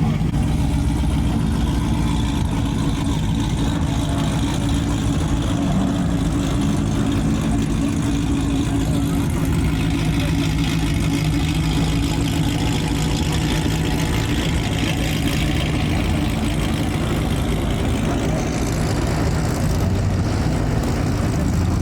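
Car engines running at low speed as several cars roll slowly past, a steady low drone.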